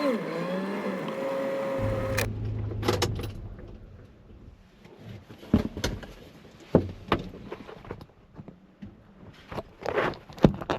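A car engine running with a wavering pitch for about two seconds, then cut off abruptly. After that come scattered sharp clicks and knocks, with a cluster near the end.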